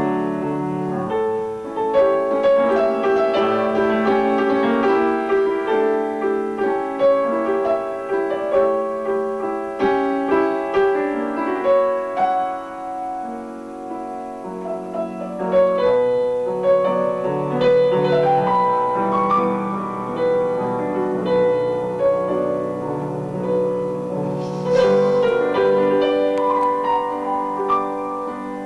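Piano playing a continuous piece of struck notes and chords.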